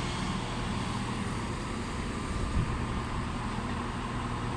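Steady low hum of a train at a station platform, with a faint steady whine above it.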